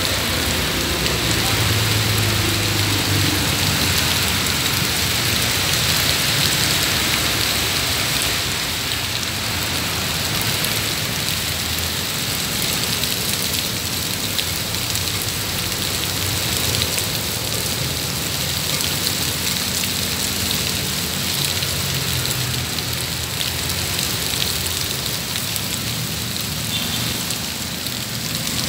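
Heavy rain pouring steadily onto wet pavement, with vehicles now and then driving past on the waterlogged road.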